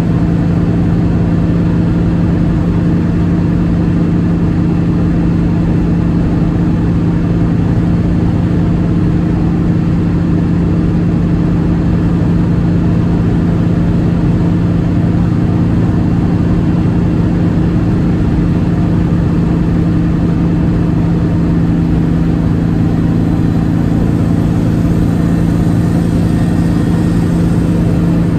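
1958 Volkswagen Beetle's air-cooled flat-four engine running steadily at an unchanging pitch, over a dense low rumble.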